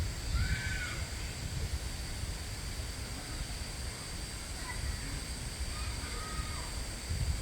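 Wind buffeting the microphone in a steady low rumble, under a constant high-pitched insect drone, with three short bird calls: one about half a second in and two more in the second half.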